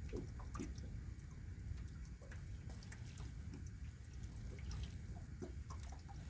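Light water sounds, small drips and splashes at irregular moments, over a steady low rumble.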